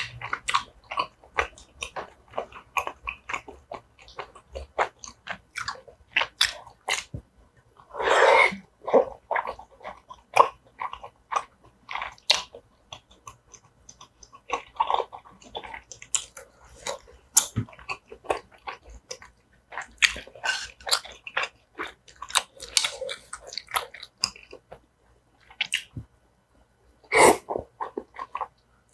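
Close-miked eating sounds of tteokbokki: chewing and biting on chewy rice cakes and soft cabbage and onion, with many small wet mouth clicks and smacks, and a louder slurp from a spoon near the end.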